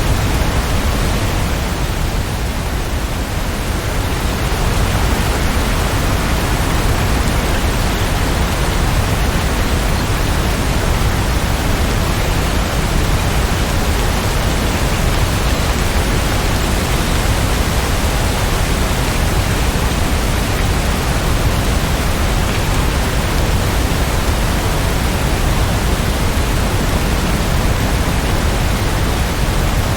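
Steady rainfall, an even dense hiss with no separate drops or thunder standing out, dipping slightly for a moment a few seconds in.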